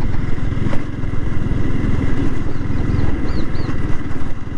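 Yamaha R15 V3's single-cylinder four-stroke engine running steadily under way as the motorcycle is ridden, with a brief click about a second in.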